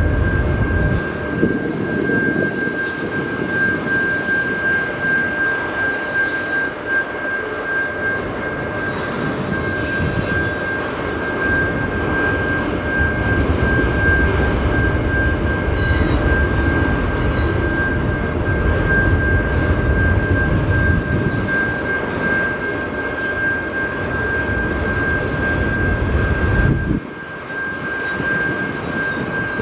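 A freight train rolling past: a dense, uneven rumble and clatter of cars on the rails, with a steady high whine over it. The low rumble drops off sharply near the end.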